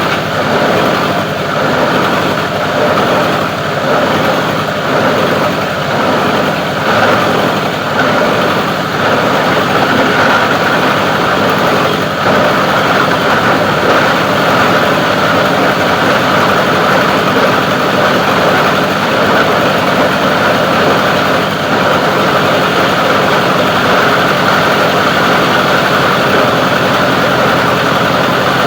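Plastic recycling grinder machine running continuously, uneven for the first ten seconds or so, then steady.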